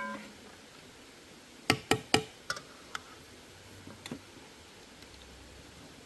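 A few sharp knocks: three loud ones in quick succession about two seconds in, then scattered lighter taps and clicks.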